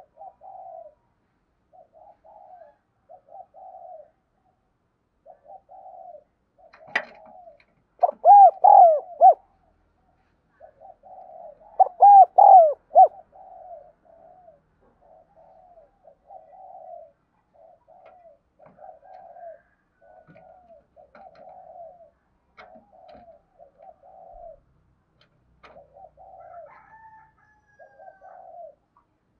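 Spotted doves cooing over and over, a string of fainter coo phrases throughout, with two much louder, closer phrases about eight and twelve seconds in. A sharp click comes just before the first loud phrase.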